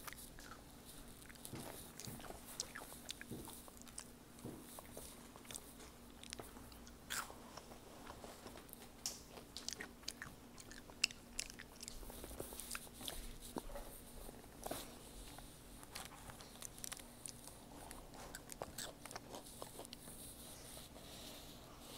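A child chewing a mouthful of Rice Krispie treat, with faint, irregular crunching of the puffed rice.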